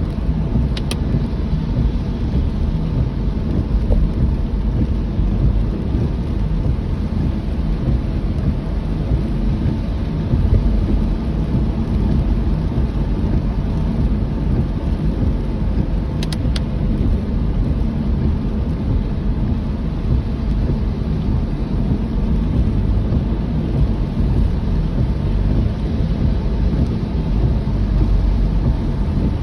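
Steady low rumble of a car driving in rain, with the hiss of rain mixed in and two faint clicks.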